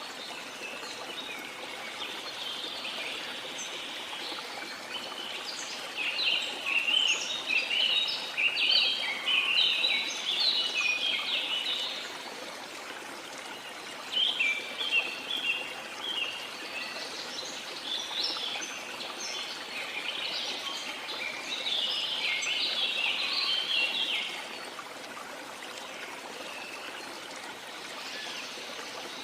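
River water flowing steadily, with birds chirping and singing in two busy spells through the middle.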